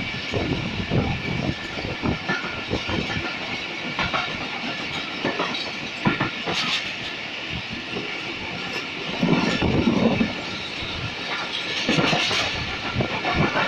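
Passenger train coach running at speed, heard from its open window: a steady rolling rumble with wheels clicking over rail joints. About nine seconds in it grows louder for a second or so.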